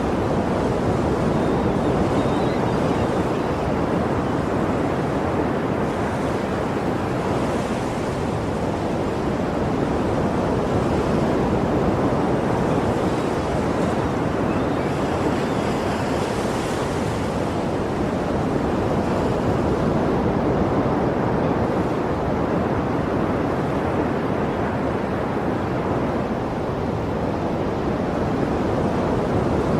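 Sea surf: waves breaking and washing in a continuous rushing noise that swells and eases gently, with a brighter hiss of wash surging up a few times, around a quarter and again about halfway through.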